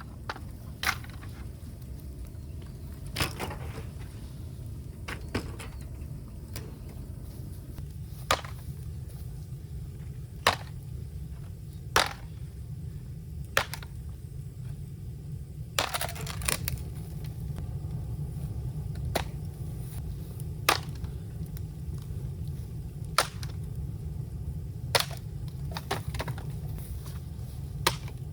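Bamboo giving sharp cracks and snaps every second or two, with one longer crackling crack about halfway through, over a steady low rumble.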